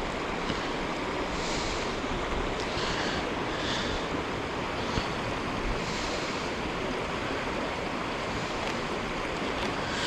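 Steady rushing wind noise, with a few faint soft swells.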